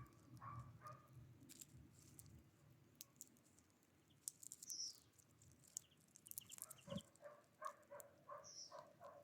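Faint small-bird calls: a few brief high chirps, and near the end a run of short repeated notes, with scattered light taps.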